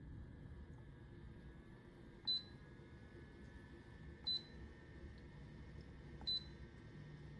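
Short, high electronic beeps, one every two seconds, three in all, over a faint steady low hum.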